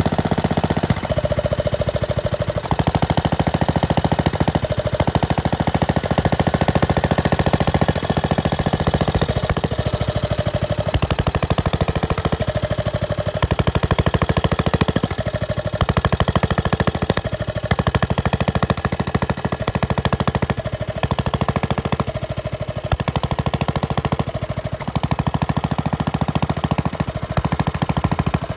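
Bernard Moteurs W10 stationary engine running steadily, with a fast, even firing beat.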